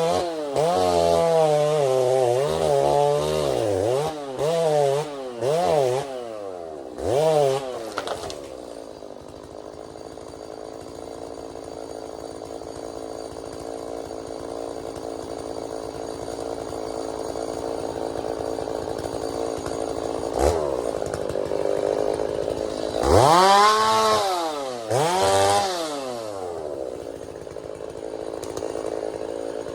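Two-stroke chainsaw revved in a run of quick bursts, then settling to a steady idle. After a short blip it is revved hard twice near the end, then drops back to idle.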